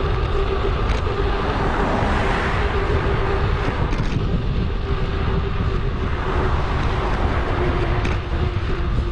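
Wind noise on a GoPro action camera's microphone and road noise from a bicycle ride, played back at 2.5 times speed, with a steady tone running through it.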